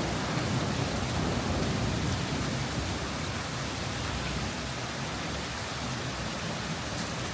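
A heavy storm downpour falling steadily as a dense, even hiss, easing slightly after about three seconds.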